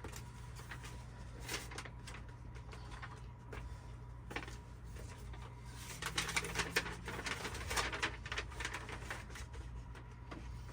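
Small clicks and rustling of wall-mount hardware and packaging being handled, starting about six seconds in, over a steady low hum.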